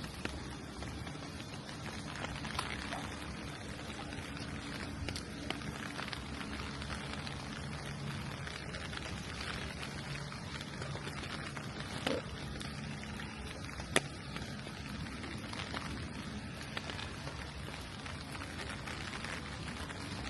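Steady rain on a street, with scattered drips and a low hum underneath. There is a sharp single tap about fourteen seconds in.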